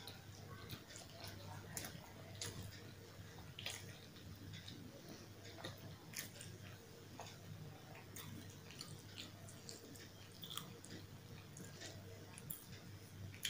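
Close-miked chewing and wet mouth sounds of someone eating puri with potato curry by hand, heard as a string of soft clicks and smacks.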